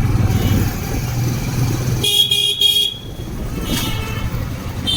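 Motorcycle ride through traffic: a steady low engine and wind rumble, with a vehicle horn honking about two seconds in for most of a second, then two shorter honks near the end.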